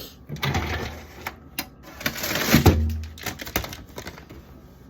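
Food containers and bottles being handled and moved about in a refrigerator: clicks, knocks and rustling, with one heavier knock about halfway through.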